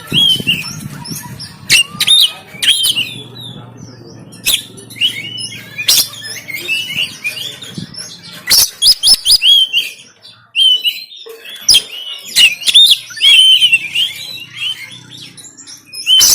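Oriental magpie-robin (kacer) singing a fast, varied run of short whistles and chirps, broken by many harsh, abrupt notes.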